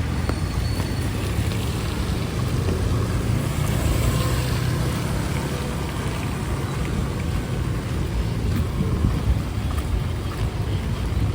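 Heavy rain falling steadily, with a low rumble of wind on the microphone.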